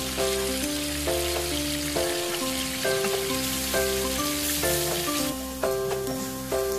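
Oil sizzling as chopped aromatics fry in a nonstick pan and are stirred with a spatula, over background music with a repeating melody. The sizzle drops away about five seconds in.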